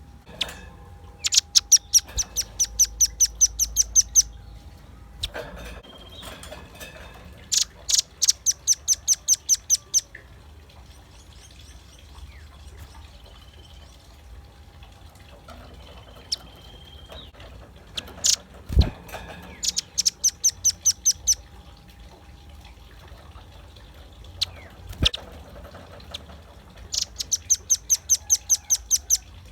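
Velvet-fronted nuthatch calling in rapid, high, rattling series of sharp notes, about four to five a second. Four runs of two to three seconds each come with pauses between, and a few single sharp chips fall in the gaps.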